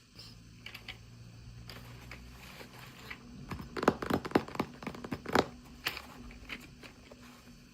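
Packaging being handled and opened: crinkling, tearing and scraping with a run of sharp clicks and snaps from about three and a half to five and a half seconds in, over a faint low hum.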